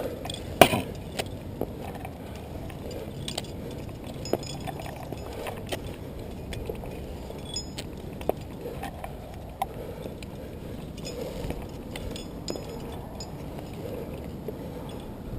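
Scattered light metallic clicks and clinks of climbing gear over a faint steady background, with the sharpest click about half a second in.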